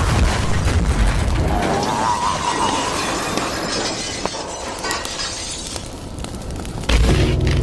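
A long crashing, shattering noise that slowly dies away, then a sudden loud low boom near the end.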